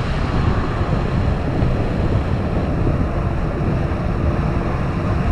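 Steady rushing wind noise on the microphone during a fast ride on an e-bike at maximum pedal assist.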